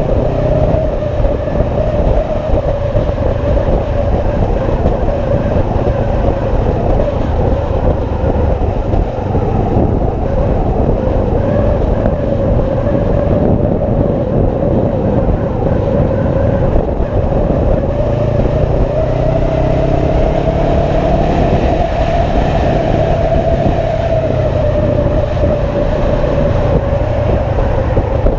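Motorcycle riding at a steady speed: a constant engine drone mixed with road noise, its pitch rising a little and easing back about two-thirds of the way through.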